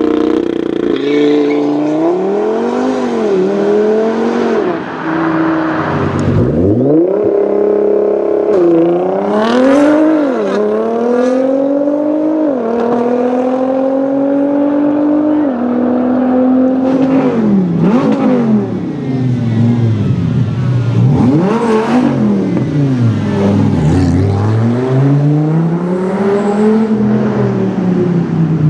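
A high-performance car engine revving hard over and over, its pitch climbing and falling with each rev, with a few sudden steps down in pitch.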